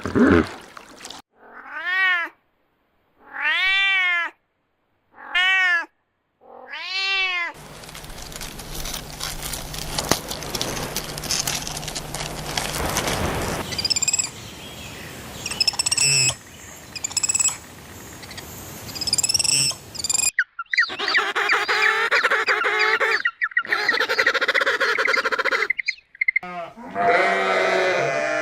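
A cat meowing four times, each meow rising and then falling in pitch. Then a stretch of steady background noise with a few short high bird chirps, followed by busier animal calls and a wavering bleat-like call near the end.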